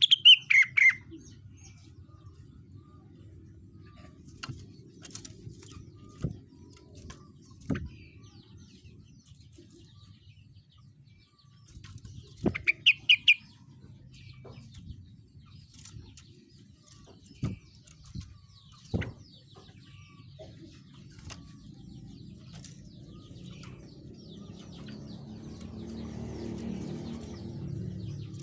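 Rengganis songbird giving two short bursts of quick, high chirps, one at the start and another about thirteen seconds in, with a few sharp clicks in between over a low background rumble.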